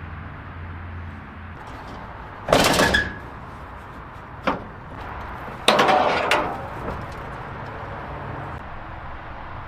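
Three loud bangs or clunks, the first and last longer with a rattling tail, the middle one short and sharp.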